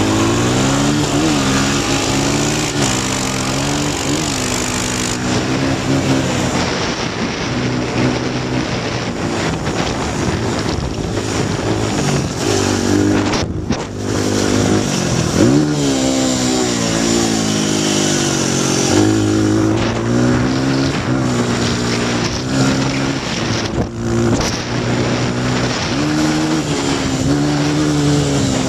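Honda XR100 dirt bike's single-cylinder four-stroke engine revving up and down while riding, its pitch repeatedly climbing and dropping as the throttle opens and closes, with wind rushing over the helmet-mounted microphone. The engine note drops out briefly twice, about halfway through and again near the end.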